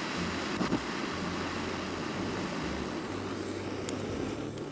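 Portable gas-cartridge torch burning with a steady rushing hiss, easing off near the end.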